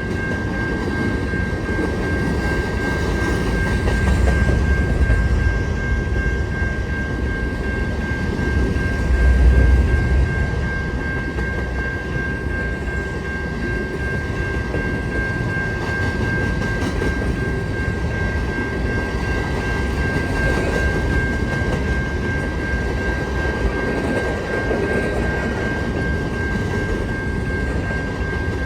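Empty grain hopper cars of a long freight train rolling past: a steady rumble of steel wheels on the rails, with a steady high-pitched ringing tone. The rumble swells twice, around four to five seconds in and again near ten seconds.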